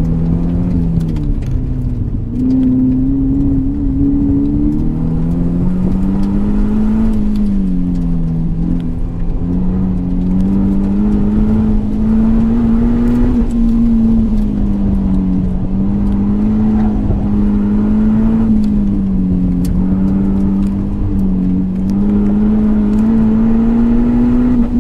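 A Solo Spec Coupe's 2.0-litre flat-four boxer engine running hard through an autocross course. Its pitch climbs and falls again and again as the driver accelerates, lifts and brakes between cones, with a sudden jump in pitch about two seconds in.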